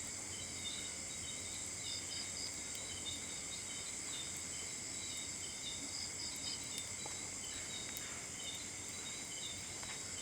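Steady night-time chorus of crickets and other insects, several high trilling layers. One caller adds a group of three short chirps about every four seconds.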